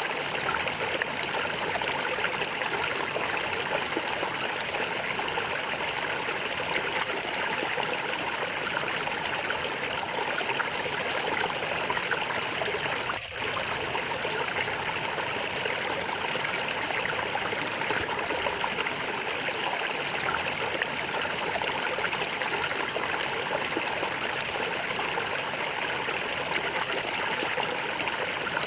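A stream of water flowing and gurgling steadily, with a momentary dip in level about halfway through.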